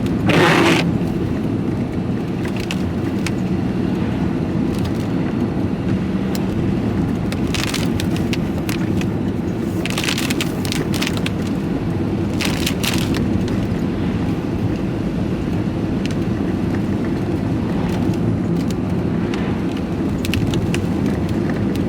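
Diesel vehicle running steadily on the road, engine hum and road noise heard from inside the cab, with a few short sharp knocks or rattles: one near the start, then several around the middle.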